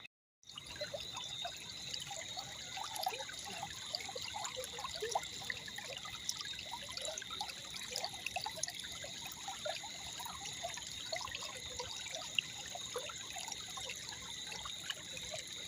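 Brown floodwater running out through a river mouth burst open by heavy rain, with many small irregular splashes over a steady rush. A steady high-pitched tone sits behind it.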